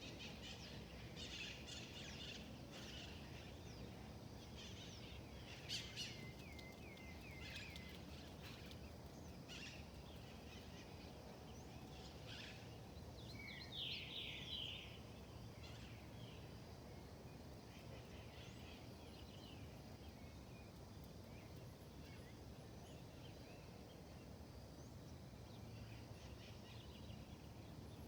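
Faint outdoor ambience of several wild birds chirping and calling over a steady low background hiss, with a quick run of rapid notes about halfway through.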